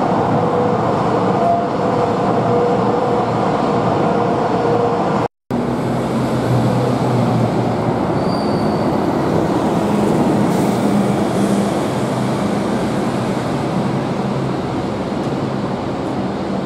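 Metro train running, a steady rumble with a few held motor tones. The sound cuts out briefly about five seconds in and comes back as another train run, with a lower hum.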